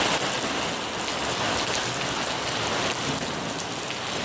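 Heavy rain pouring down steadily in a downpour, a dense even hiss of drops hitting surfaces.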